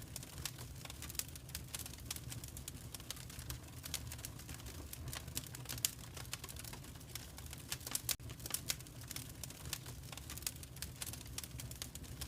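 Wood fire in a fireplace crackling, with frequent sharp snaps and pops over a steady low rumble. The sound drops out for an instant about eight seconds in.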